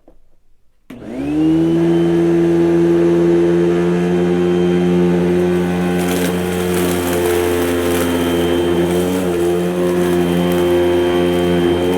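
Vacuum cleaner switched on about a second in, its motor whirring up to speed within half a second and then running steadily at a constant pitch.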